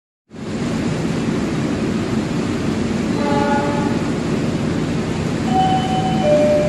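Argo Wilis passenger train arriving in the rain: a steady rumble and hiss of the train and rain. Faint brief tones come in about halfway and again near the end.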